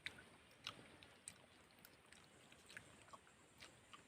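Near silence with a few faint, scattered clicks of chewing.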